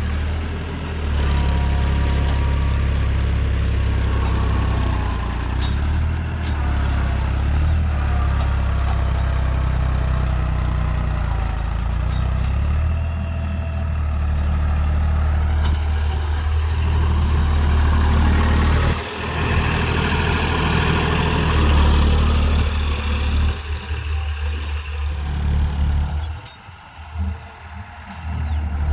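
Tractor engine running at a steady low idle; it becomes uneven and drops in level near the end.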